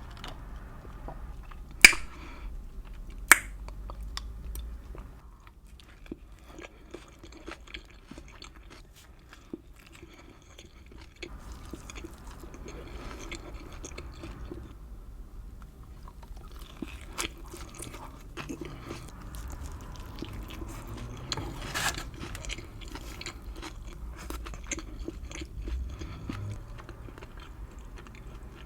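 Close-miked mouth sounds of someone biting and chewing homemade street tacos, a steady run of wet smacks and soft crunches. Two sharp, loud clicks come about two and three seconds in.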